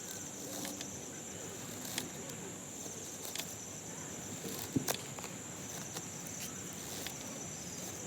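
Steady high trilling of autumn insects such as crickets, with a few scattered sharp clicks.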